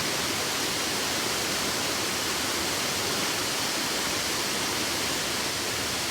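Steady rushing of river water falling over waterfalls, an even, unbroken wash of sound.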